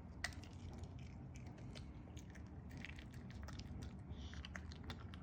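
A puppy chewing dry kibble: faint, irregular crunches.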